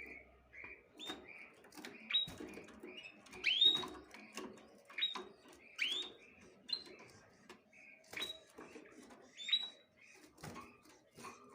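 Small birds chirping: short, sharply rising chirps every half second to a second, over light rustling and scratching.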